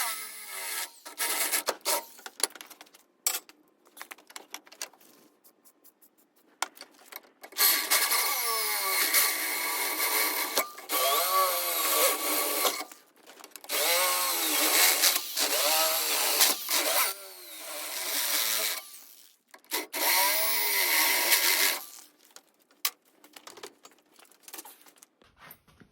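A handheld power tool run in four bursts of a few seconds each, its pitch swinging up and down within each burst, with light clicks and knocks of handling before and after.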